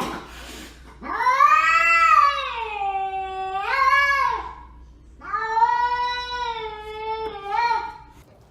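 Domestic cat yowling in long, drawn-out calls: a short one at the start, then two long wavering yowls of about three seconds each that rise and fall in pitch.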